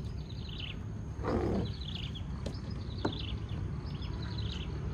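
Birds chirping in repeated short clusters over a steady low outdoor rumble. A brief rushing burst comes about a second and a half in, and a single sharp knock comes about three seconds in.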